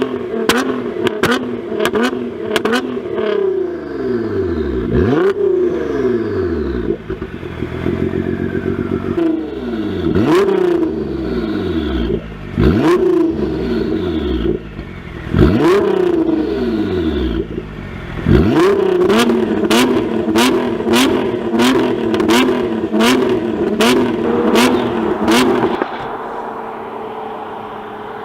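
Tuned Nissan GT-R R35's 3.8-litre twin-turbo V6 blipped repeatedly through an aftermarket exhaust, each rev rising and falling back to idle, with runs of sharp pops between revs. Near the end it settles to a quieter steady idle.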